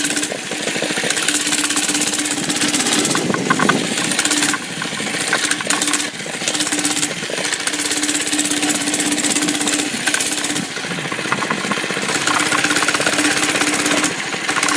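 Mini bike's small engine running under throttle while riding, its steady note breaking off and coming back several times as the throttle eases and opens.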